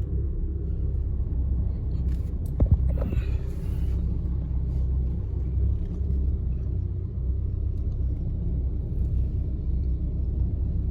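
Steady low rumble of a car running, with one sharp knock about two and a half seconds in.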